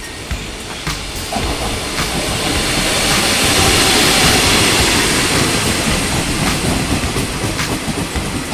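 Locomotive-hauled Taiwan Railways Chu-kuang Express passenger train pulling into a station, rumbling louder as the locomotive draws level about three to four seconds in, then carriages rolling past with wheels clicking over the rails.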